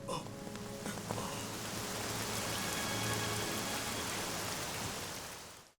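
Steady rain-like hiss with faint sustained music tones beneath it. It builds over the first couple of seconds, then fades and cuts off near the end.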